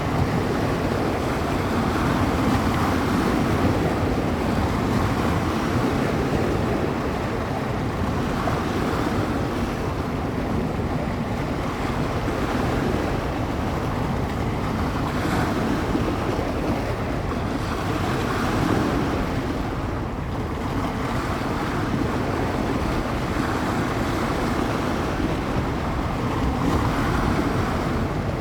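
Small wind-driven waves breaking and washing on the bay shore in a continuous surge that swells every few seconds, with wind buffeting the microphone as a low rumble underneath.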